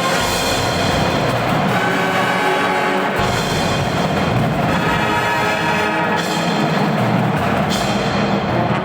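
Marching band playing: held chords over drums and timpani, with the bass growing stronger about three seconds in.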